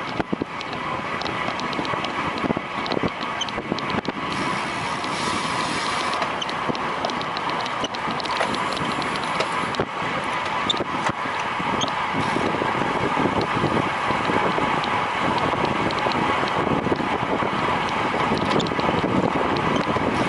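Wind rushing over the microphone of a road racing bicycle's onboard camera at speed: a steady rush with a faint steady hum and scattered small clicks.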